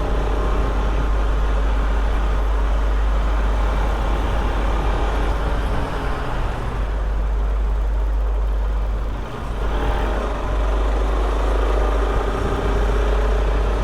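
Steady rushing noise of a motorcycle ride in road traffic: heavy low rumble of wind on the microphone, with engine and passing-vehicle noise underneath.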